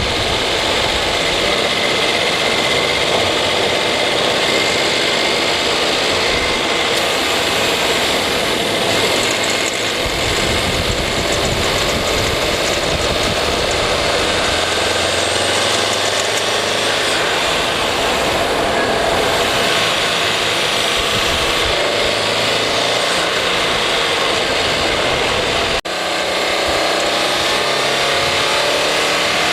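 Subaru WRX turbocharged 2.0-litre flat-four engine running steadily while driving, loud and full of mechanical noise. About 26 s in there is a brief break, and after it the engine pitch rises and falls with the revs.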